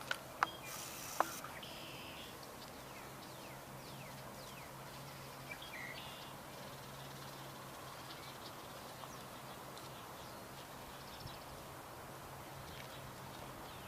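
Outdoor ambience of birds chirping in short falling calls over a steady low hum, with a few sharp clicks and a brief hiss in the first second or so.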